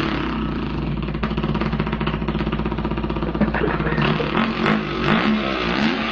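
A man imitating a dirt bike engine with his voice and lips. A rattling, buzzing idle holds steady, then from about three and a half seconds in it revs up and down in pitch several times.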